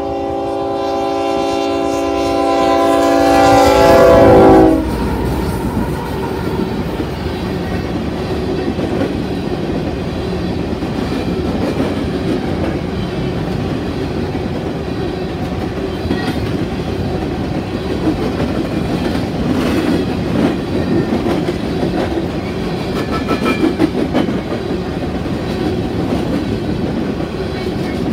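Union Pacific diesel locomotive sounding its multi-chime air horn, one long blast growing louder as it nears and cutting off about four and a half seconds in. Then a coal train's open-top cars roll past close by in a steady rumble with wheel clatter over the rail joints.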